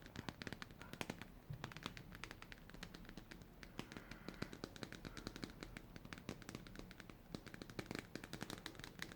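Close-miked ASMR clicking: a dense, irregular run of rapid sharp clicks and crackles, some faster clusters.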